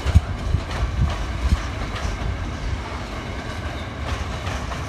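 Freight train wagons rolling past, the wheels clacking and thumping over the rail joints with a steady rumble. The thumps are heaviest in the first second or so.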